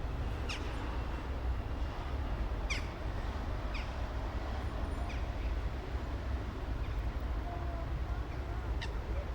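Street ambience: a steady low rumble of distant traffic, with a few short, high, falling bird chirps over it, about four in all.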